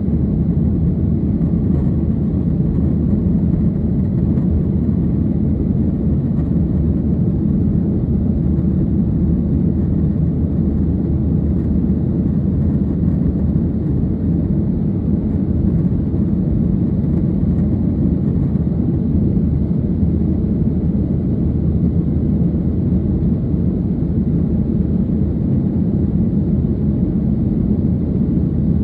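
Steady low rumble of jet engine and air noise heard inside an airliner's cabin, unchanging throughout.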